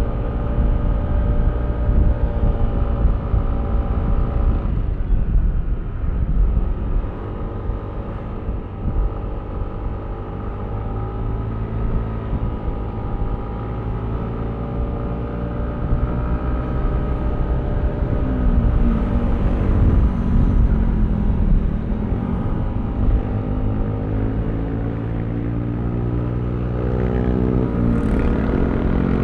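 Yamaha Aerox V3 scooter's 155 cc single-cylinder engine running while riding. Its pitch drops about five seconds in, then climbs again about two-thirds through and once more near the end. A steady low rumble of wind buffets the microphone underneath.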